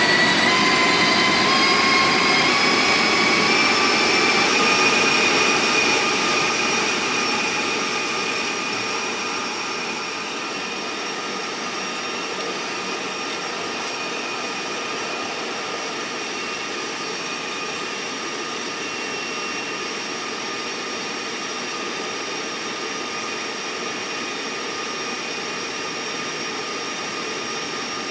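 A passenger train's running noise as it rolls along the track, played back at two to two and a half times speed, so it comes out as a steady whine over a rushing hiss. Its tones climb in pitch over the first few seconds as the playback speeds up, and it grows quieter between about six and ten seconds in.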